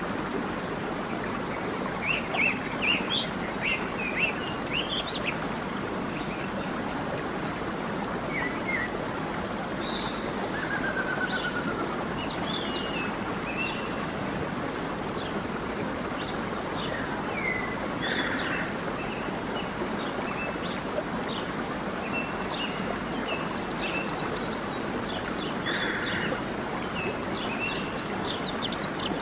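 A stream running steadily, with several songbirds chirping and trilling over it: short calls scattered throughout, a busy cluster of chirps a few seconds in and again near the end.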